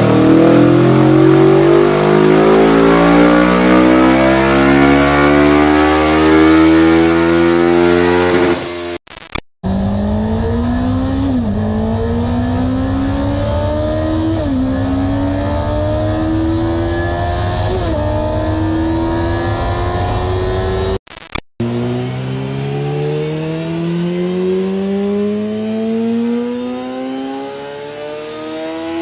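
Honda CBR sport motorcycle exhausts, heard in three clips, each accelerating hard with engine pitch climbing. In the middle clip the pitch drops sharply three times as the rider shifts up through the gears.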